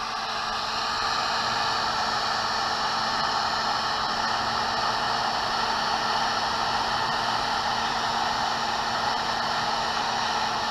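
Hot-air heat gun blowing steadily, with a faint hum under the rush of air, shrinking heat-shrink tubing over a knotted cord end.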